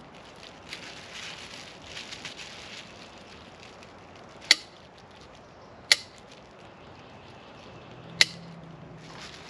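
Light rustling, then three sharp clicks or knocks, the second about a second and a half after the first and the third about two seconds later.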